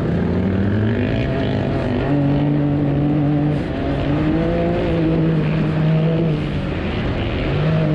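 An off-road vehicle's engine running hard, its pitch climbing in the first second and then holding. It rises again around the middle, then drops and climbs once more near the end.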